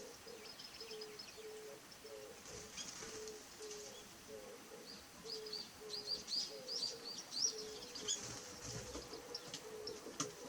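Japanese white-eye calls: thin, high chirps that come faster in a quick run in the second half. A low short note repeats evenly underneath, about three times every two seconds.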